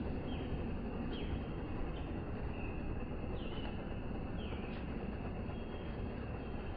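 Outdoor ambience: a steady rushing noise with a bird repeating short falling chirps roughly once a second.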